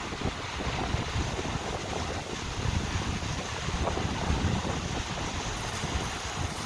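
Wind buffeting the phone's microphone in uneven gusts, over the steady wash of ocean surf.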